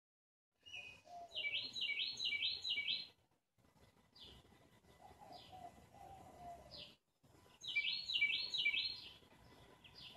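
A songbird singing: a quick run of about five repeated sweeping notes, given twice, with fainter single notes in between.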